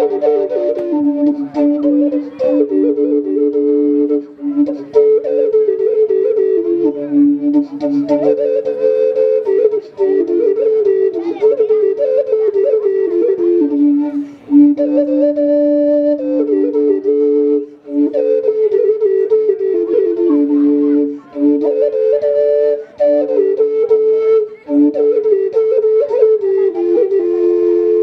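Flute-like woodwind music: a tune in two parts, a moving melody over a second, lower line, with short breaks between phrases.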